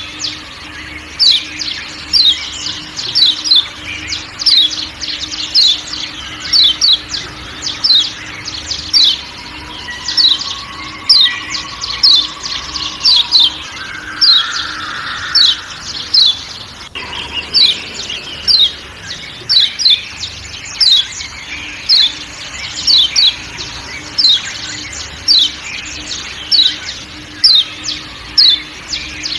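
Kecial kuning (Lombok white-eye, a Zosterops) giving short, sharp 'ciak' calls that drop quickly in pitch, repeated about one to two times a second, over a faint background of forest sounds with a steady low hum.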